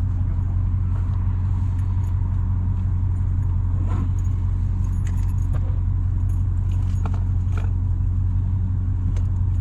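Dodge Hellcat's supercharged 6.2-litre HEMI V8 idling steadily with a deep, even drone, with a few light clicks or jingles over it.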